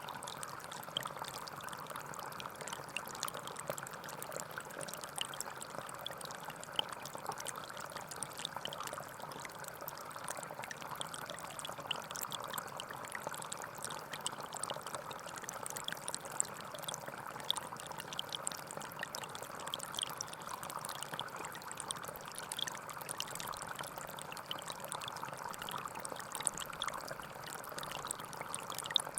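Gentle forest stream flowing steadily, a constant trickling babble of water with fine splashing detail.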